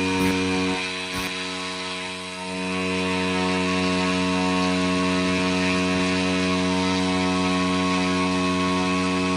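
UAV EFI fuel system test rig running with a steady pitched mechanical drone, dipping briefly in loudness a second or two in before settling back to a steady level.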